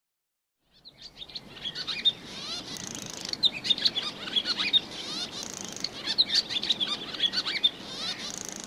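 A songbird singing a long, fast, varied song of chirps, trills and sliding whistles, starting about a second in and cutting off at the end.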